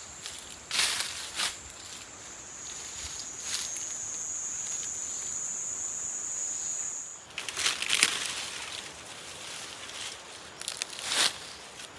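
A steady, high-pitched insect buzz that cuts off suddenly about seven seconds in, over scattered rustling and crackling of leaves and undergrowth.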